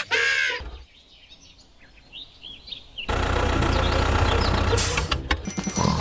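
Birds chirping in a quiet stretch, then an engine starts running steadily about three seconds in, with a low even hum.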